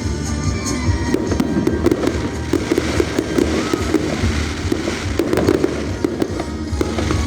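Fireworks display going off: a dense, continuous run of bangs and crackling bursts, with music playing alongside.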